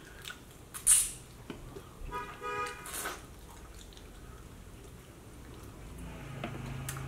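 Close-up eating sounds of chicken wings being bitten and chewed: wet mouth smacks and clicks, two sharper ones about one and three seconds in, with a brief hummed "mm" just after two seconds.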